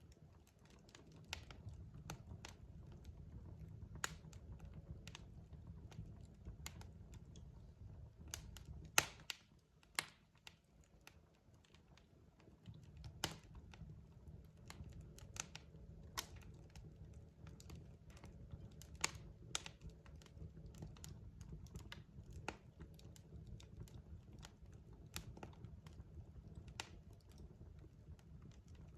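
Wood fire crackling in a fireplace: irregular sharp pops and snaps from the burning logs over a low steady rumble of flame. The rumble drops away for a couple of seconds near the middle.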